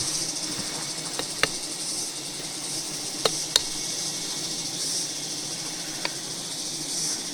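Steady insect chorus, a high-pitched pulsing chirr with a weaker low hum beneath it. Five short sharp clicks are heard, the first two about a second in, two more a little past three seconds and one near six seconds.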